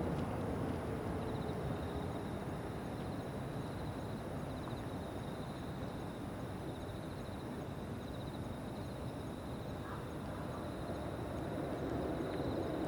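Insects trilling steadily in two high, pulsing voices over the low rumble of distant jet aircraft, which eases off mid-way and swells again near the end.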